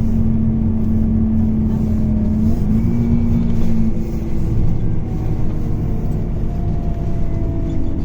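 Scania K280UB bus's diesel engine and ZF Ecomat automatic drivetrain running on the move, heard through a phone microphone. A steady whine steps up in pitch about two and a half seconds in and stops a second later.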